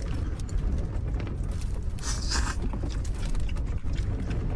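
Gale-force wind buffeting a small camper van, heard from inside as a steady low rumble that swells and eases, with a brief hiss about two seconds in.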